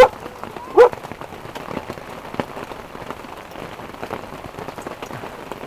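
Steady heavy rain falling on the ground and campsite surfaces after a hailstorm. Two short, loud vocal calls come right at the start and again just under a second in.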